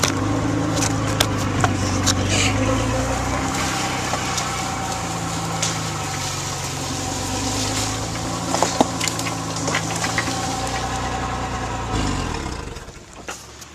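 Ford F250 service truck's engine running as the truck moves through brush, its pitch rising and falling, with repeated cracks and snaps of sticks and branches. About twelve seconds in the engine winds down and drops away.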